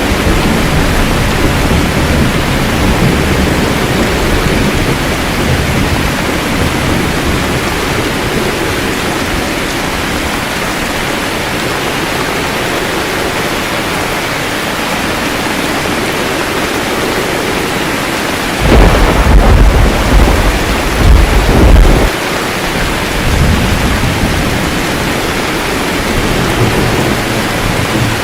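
Steady rain with thunder rumbling low underneath. About two-thirds of the way in, a louder peal of thunder rolls for about three seconds, then it fades back to rain.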